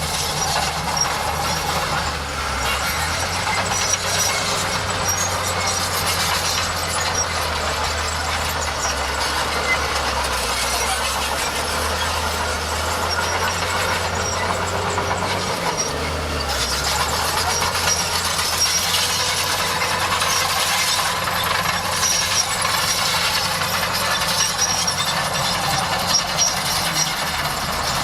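Bulldozer working: its diesel engine runs steadily under load, the engine note shifting briefly about halfway through, with high metallic squeaks and clinks from the crawler tracks.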